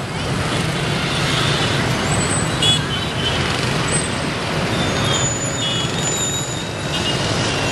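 Dense motorbike and scooter traffic running steadily through a roundabout, with a constant low engine hum and, scattered through it, short high-pitched horn beeps.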